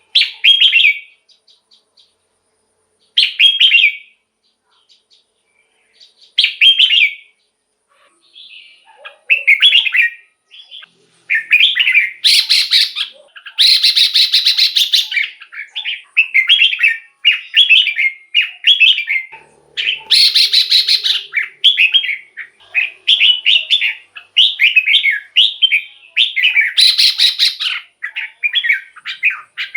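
Red-whiskered bulbul singing: short warbled phrases a few seconds apart at first, then an almost unbroken run of song from about a third of the way in, mixed with a few harsher rasping notes.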